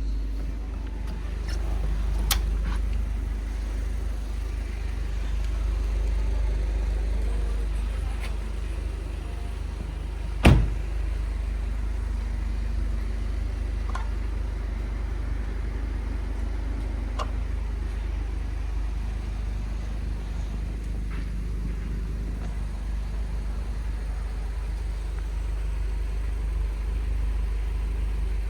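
Volkswagen Golf GTI Mk6 Edition 35's turbocharged 2.0-litre four-cylinder with a decat downpipe, running steadily at low revs as a deep rumble. A few light clicks, and one sharp crack about ten seconds in.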